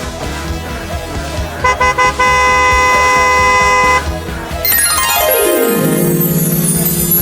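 Cartoon horn sound effect over upbeat background music: three short honks, then one long steady toot, followed by a sliding tone that falls from very high to low and holds there.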